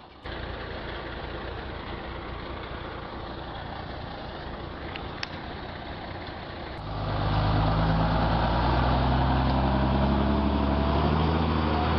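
Heavy truck engine running steadily. About seven seconds in it turns louder, with a strong, deep engine drone.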